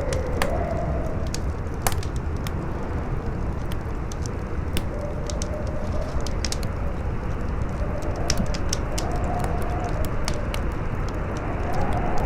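Campfire crackling with frequent sharp pops, one louder snap about two seconds in, over a steady rush of strong wind with a faint howl that rises and falls in pitch.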